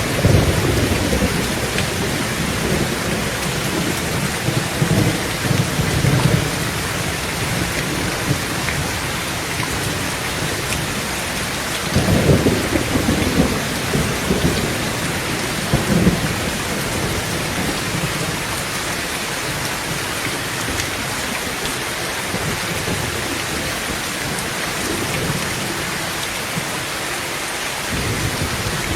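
Heavy rain drumming steadily on a tin tent roof, with thunder rumbling at the start and a stronger roll of thunder about twelve seconds in, fading by about sixteen seconds.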